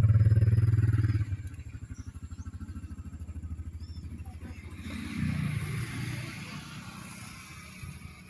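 Diesel passenger train running away along the track, engine and wheels loud for the first second or so, then fading, with a second swell about five seconds in.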